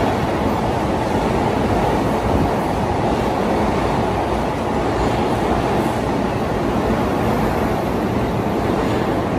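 Keiyo Line electric commuter train running alongside an underground station platform: a steady, loud rumble of wheels on rail and running gear, mostly low in pitch.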